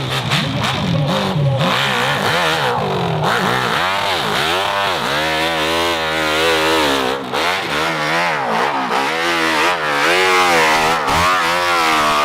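Off-road motorcycle engine revving up and down over and over in quick throttle blips, several rises and falls in pitch every couple of seconds.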